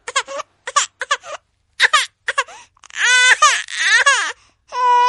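A baby crying: short, broken sobs at first, then longer wailing cries from about three seconds in.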